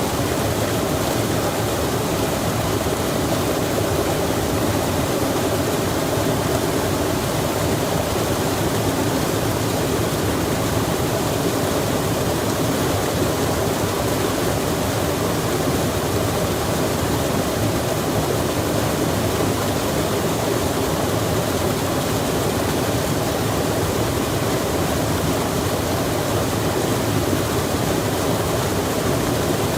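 Rain falling by a flowing stream: a steady, even rush of water.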